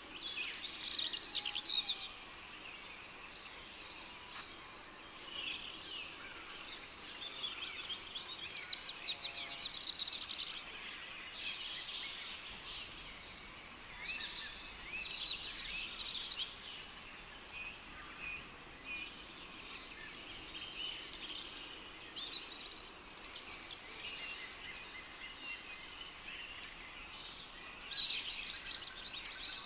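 Rainforest ambience: a cricket chirping in a steady, rapid high pulse of several chirps a second, with birds calling and trilling over it at intervals, loudest around the second, tenth and twenty-eighth seconds.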